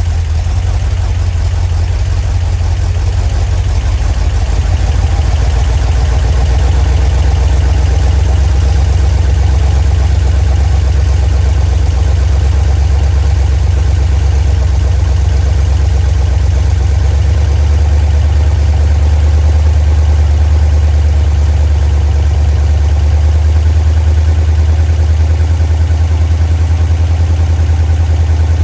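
Freshly rebuilt 318 cubic-inch (5.2 L) Magnum small-block V8 running steadily on its first real start, a loud, even, low engine note. Its tone shifts slightly about seventeen seconds in.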